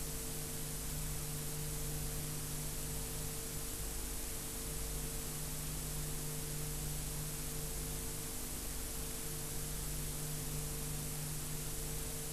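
Steady hiss with a low electrical hum from the recording chain; nothing else is heard.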